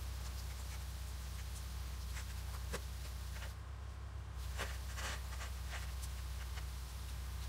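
Toyota Land Cruiser 80's engine idling steadily, with scattered light clicks and rustles of handling at the front of the vehicle.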